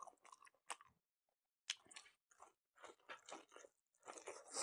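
Faint close-miked chewing of a mouthful of food: short wet mouth clicks and crunches, pausing briefly about a second in and growing busier near the end as a pinch of leafy greens goes in.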